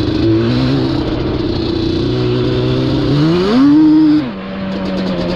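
Yamaha Banshee ATV's twin-cylinder two-stroke engine running at a steady pitch, revved up sharply about three seconds in, held briefly, then dropping back to a lower steady note.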